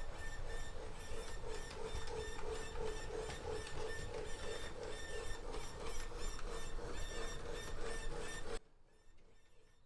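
Lionel LionChief Plus O gauge steam locomotive running on track: a steady, wavering squeal over an evenly spaced ticking of the mechanism. The owner puts the squeak down to the engine not having run in a while. The sound drops away suddenly near the end.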